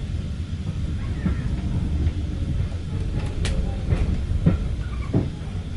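Train running along the track: a steady low rumble, with a few sharp clacks from the wheels over the rails in the second half.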